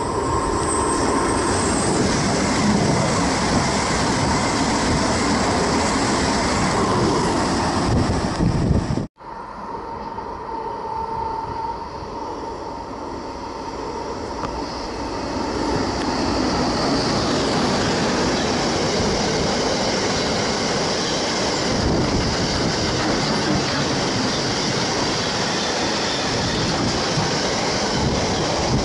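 A freight train of double-deck car-carrier wagons approaching and passing close by, with the rumble of wheels on the track building up over the second half. The sound cuts out sharply for a moment about nine seconds in.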